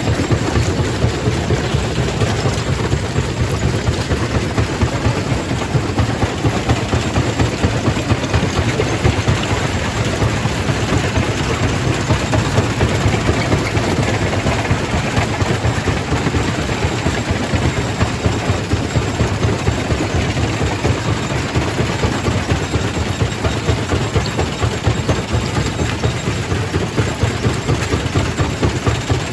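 Quarry primary rock crusher running: a steady heavy rumble with a dense, rapid, uneven rattle.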